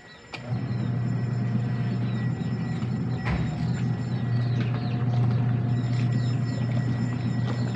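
A steady low rumbling hum starts suddenly about half a second in and runs on evenly, with small birds chirping over it and a couple of sharp clicks.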